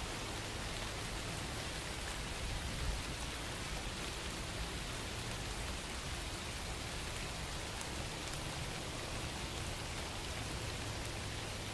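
Steady rain falling on a surface, an even hiss of drops with a dull low thump about three seconds in.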